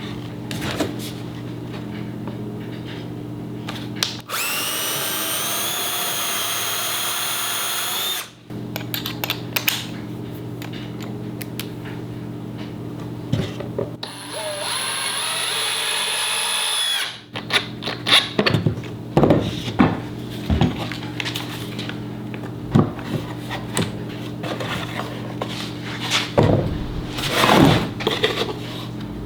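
A power drill running twice, once for about four seconds and once for about three, each run a steady high whine. Knocks and clatter of tools and wood follow, over a steady low hum.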